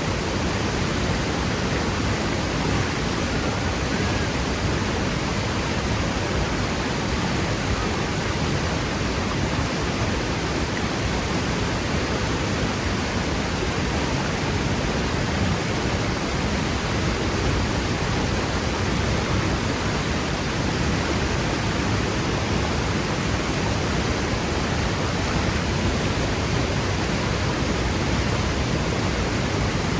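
Waterfall plunging into its pool: a steady, dense rush of falling water with no change over time.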